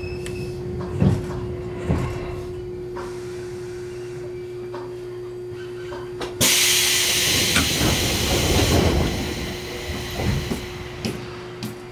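Electric commuter train coming to a stop, heard from the driver's cab: a steady hum with a couple of low thumps about one and two seconds in. About six seconds in, a sudden loud hiss of compressed air from the train's air system lasts two or three seconds and then fades.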